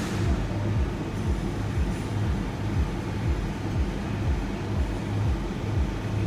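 Inside a shuttle van's cabin while driving: a steady low engine and road rumble, with a low throb pulsing a little under twice a second.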